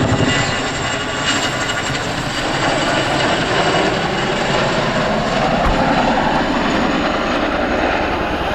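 Boeing Chinook tandem-rotor, twin-turboshaft helicopter flying a display pass, its rotors and engines loud and steady.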